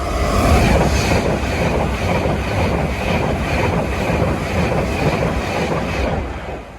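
Class 390 Pendolino electric train passing at speed: a loud rush of wheels and air with a regular beat from the wheelsets, falling away sharply about six seconds in as the train clears.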